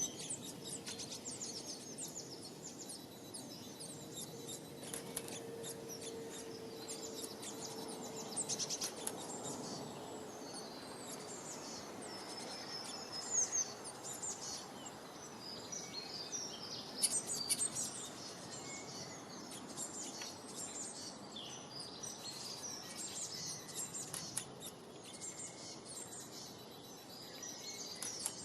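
Many small birds chirping and twittering together: a dense chorus of short, high calls over a steady background hiss.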